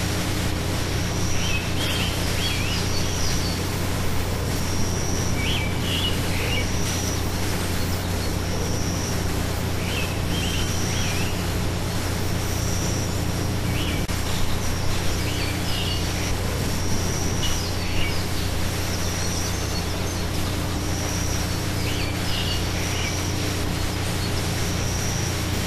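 Birds calling over a steady outdoor hiss: a high, held note repeats about every two seconds, with short chirping phrases in between, and a low steady hum underneath.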